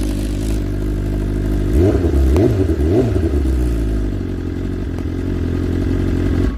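Motorcycle engine idling, revved three times in quick succession about two seconds in, then settling back to idle. It cuts off suddenly at the end.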